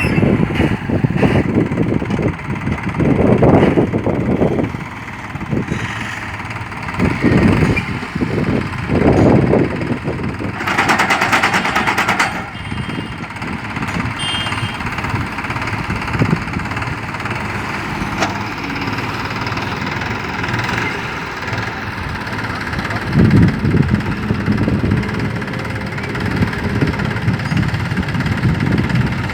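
Tractor engine running a mounted drilling machine, its sound swelling heavily several times as if under load. About ten seconds in comes a loud hiss lasting nearly two seconds.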